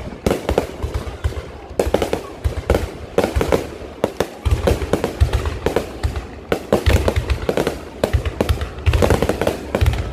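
Low-altitude fireworks going off in rapid, irregular succession: many sharp bangs and crackles overlapping, with deep booms rumbling between them.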